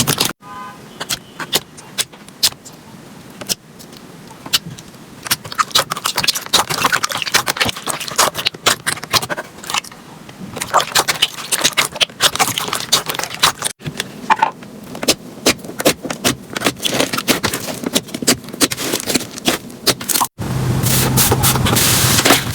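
Slime being pressed and squished by hand, giving a dense run of irregular sharp crackling clicks and pops. The sound breaks off abruptly about 14 s and 20 s in, and after the second break a low steady hum runs under the clicking.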